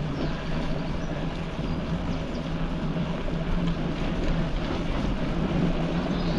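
Steady rolling noise of a bicycle ridden along a canal towpath, picked up through a GoPro mounted on the front of the bike: tyre rumble and frame vibration with a constant low hum.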